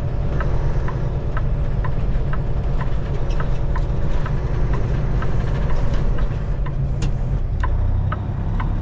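Semi-truck diesel engine running steadily, heard inside the cab, with a turn-signal relay ticking about twice a second.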